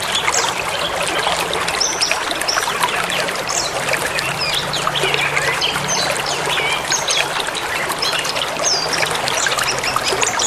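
Steady rushing of a forest river, with many small birds chirping and twittering over it in quick, scattered calls.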